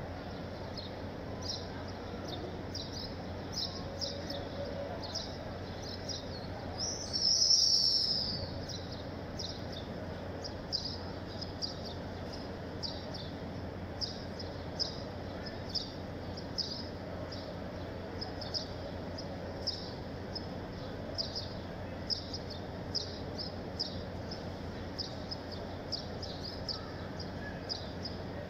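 A small bird chirping: short, high chirps repeated a little more than once a second, with one louder, longer call about seven seconds in. A steady low murmur runs underneath.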